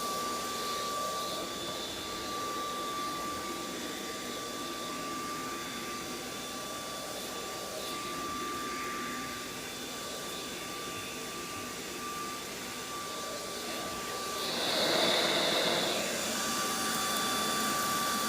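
Cordless stick vacuum cleaner running steadily, a constant motor whine over a rushing airflow. Near the end it briefly gets louder and fuller for a second or two before settling back to the same steady run.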